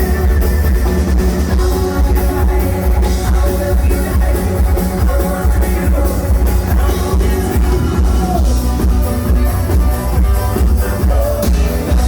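A live bluegrass-style rock cover band playing, with a heavy bass line and drums under the other instruments.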